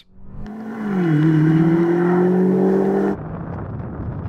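Twin-turbo BMW engine accelerating at full throttle off a drag-race launch. Its note drops once just after a second in, like an upshift, then climbs steadily. It cuts off abruptly about three seconds in to a quieter, rushing noise with no clear engine note.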